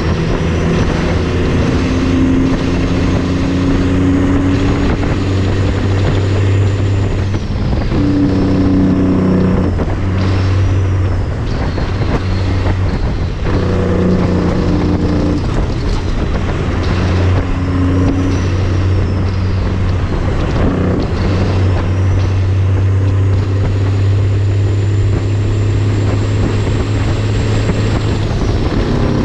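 Heavy diesel truck engine pulling under load, its note climbing and then dropping several times as it shifts up through the gears, with a faint high whine rising and falling along with it.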